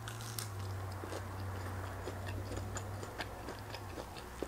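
Chewing a bite of food close to a clip-on microphone: faint, irregular soft mouth clicks, with a steady low hum underneath.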